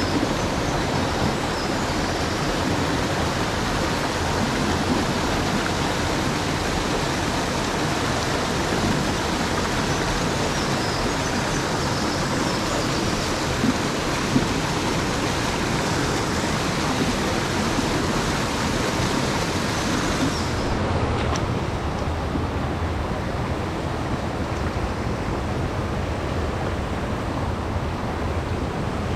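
Mountain stream rushing steadily over rocks, a dense even hiss. About two-thirds of the way through, the high end drops away suddenly and the water sounds duller and deeper.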